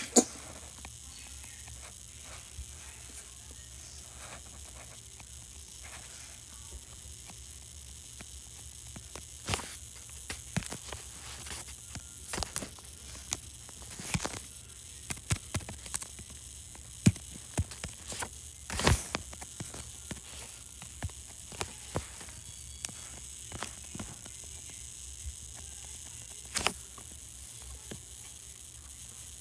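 New York City subway car running between stations: a steady low hum and hiss, with irregular sharp clicks and crackles that come thickest through the middle.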